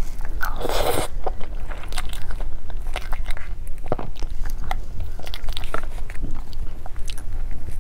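Close-miked mouth sounds of eating black sesame mousse cake. A short noisy rush about half a second in as a spoonful is taken, then chewing with many small, sharp, wet clicks and smacks.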